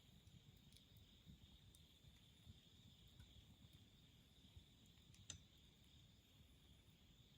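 Faint wood campfire burning with a low flutter and one sharp crackling pop of the wood about five seconds in, over a steady high chirring of crickets or other insects.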